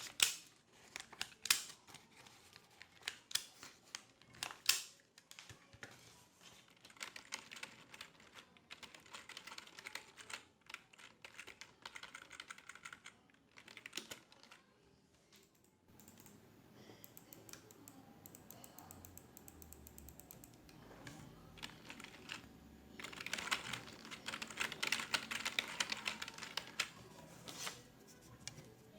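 Typing on a computer keyboard: runs of rapid key clicks with short pauses between them, and a few louder single keystrokes.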